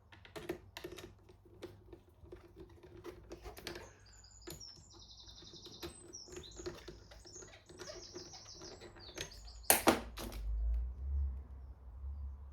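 Small clicks and taps of screws being fitted by hand into a fuel pump assembly. Through the middle few seconds a bird chirps in quick repeated high notes. A sharper double click comes near the end.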